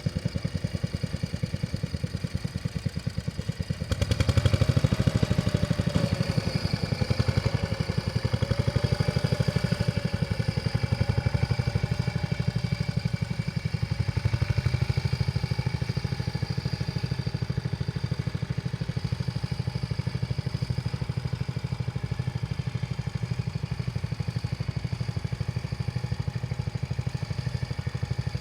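Vintage tractor engine running steadily, growing louder about four seconds in and then holding, with a wavering whine over it for several seconds.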